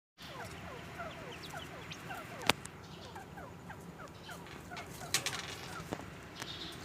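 A flock of quail chirping together: many short, falling chirps overlap continuously. A sharp click sounds about two and a half seconds in, and fainter clicks come later.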